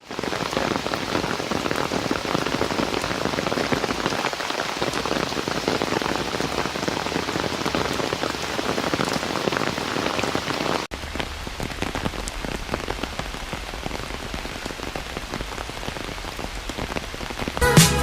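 Heavy rain falling steadily, thick with the ticks of individual drops. It drops a little in level after a cut about eleven seconds in, and background music comes in at the very end.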